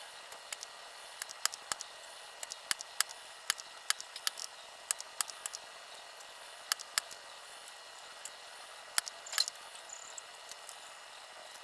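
Irregular sharp clicks and light taps of small tools being handled at an electronics workbench while a TV power-supply board is examined, over a steady hiss.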